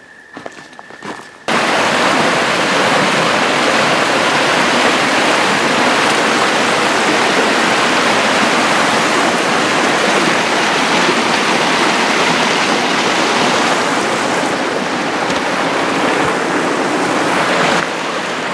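Creek water rushing, a loud steady wash that cuts in abruptly about a second and a half in and eases slightly near the end. Before it, a quieter moment holds a faint thin high tone and a few light clicks.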